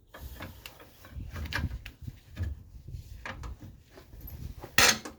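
Breaker bar with a cheater pipe straining on a seized Kia Sportage front control-arm nut, with a few short clunks and scrapes, then a loud sharp crack near the end as the seized nut breaks loose.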